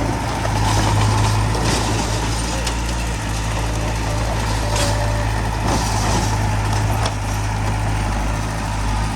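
Heavy diesel earthmoving machinery running steadily with a deep, constant drone, with a few short hissing or rattling bursts over it.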